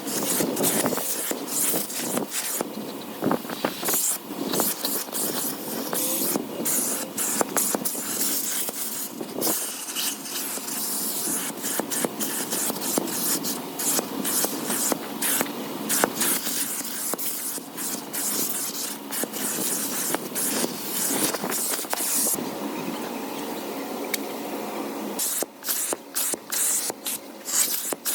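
Scraping and rustling, with many quick clicks, as sand is cleaned out of a car, over a steady rushing hiss.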